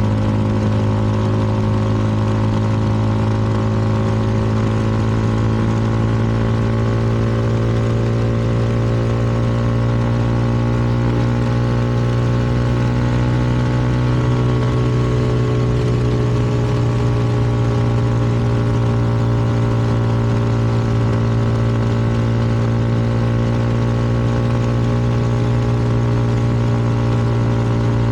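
CFMoto 300NK's single-cylinder engine running steadily, heard from the rider's seat, its pitch rising slightly and settling back about halfway through.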